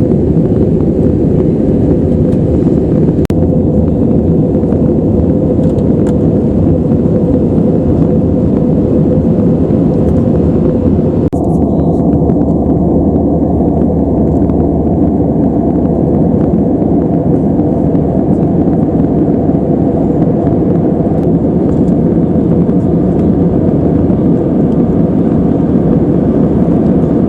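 Steady in-flight cabin noise of an Airbus A320-214: airflow over the fuselage and its CFM56 engines, a deep continuous rumble with a faint steady hum. About eleven seconds in, the higher hiss drops away suddenly while the rumble goes on.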